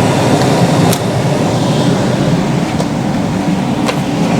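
Air fryer running on air broil at 450°F, its fan and heater making a loud steady whir, with a couple of light clicks.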